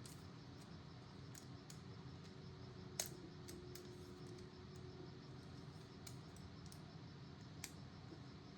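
Faint small plastic clicks as the sliders on a CPU cooler's mounting base plate are pushed into position, with one sharper click about three seconds in and another near the end, over a low steady hum.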